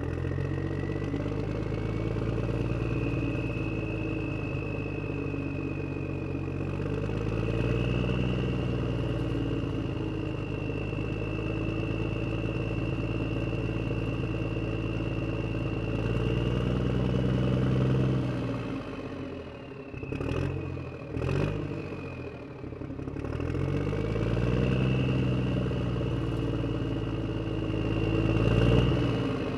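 HuiNa radio-controlled toy wheel loader running, its motors and gears giving a steady whine whose pitch rises and falls as it drives. About two-thirds through the sound drops away briefly, with a few sharp clicks, then picks up again.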